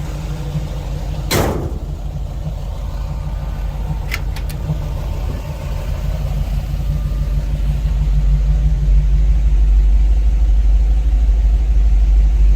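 Fuel-injected 350 cubic-inch ZZ4 crate V8 idling steadily. A brief sharp whoosh comes about a second in, then a couple of light clicks around four seconds, and a deep rumble grows louder over the last few seconds.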